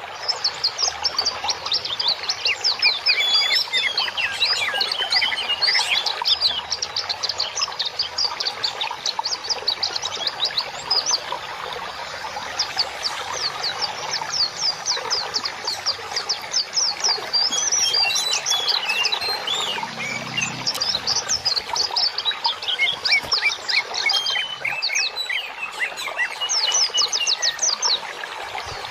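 A dense chorus of many small birds chirping and twittering at once, an unbroken stream of short, high, quickly falling chirps overlapping throughout.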